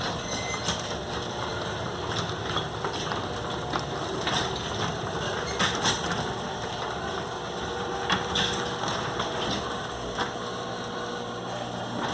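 Motorised overhead garage door travelling along its track: a steady motor hum with rattling and clicking of the door and rollers, ending suddenly about twelve seconds in.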